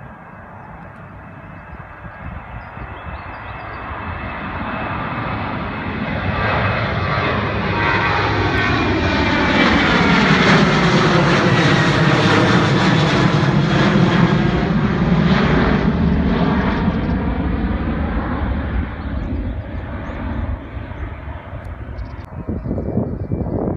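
Jet airliner taking off and passing low overhead, its engine noise swelling to a loud peak about halfway through and then fading away, with a sweeping, phasing tone as it goes by.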